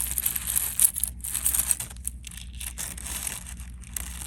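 Plastic bag or wrapping crinkling and rustling as it is handled, with a sharp click a little under a second in.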